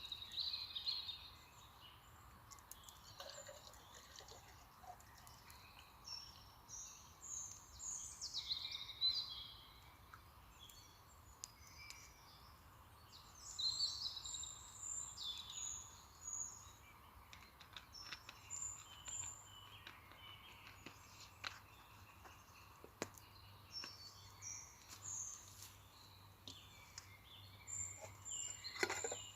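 Several small birds singing and chirping, with short high phrases overlapping one another, over a faint steady background noise.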